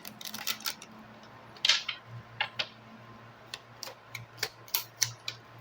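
Lenormand fortune-telling cards being shuffled and drawn by hand: a string of irregular short snaps and slides of card against card.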